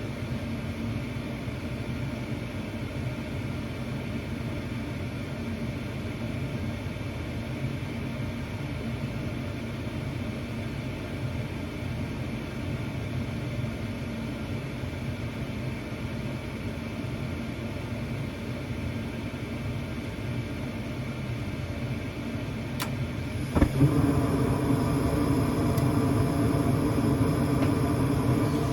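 Gas furnace running with a steady low hum. About 23 seconds in there is a sharp click, and the sound becomes louder with a steadier, higher hum added.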